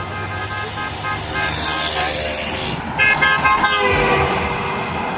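Car horn sounding in several blasts, the loudest about three seconds in, over the low rumble of a running car engine.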